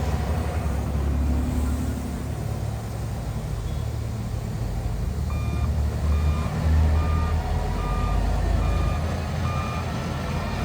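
Heavy diesel earthmoving machine's engine running with a low rumble. About halfway through, its reversing alarm starts beeping at an even pace, about one and a half beeps a second, as it backs up.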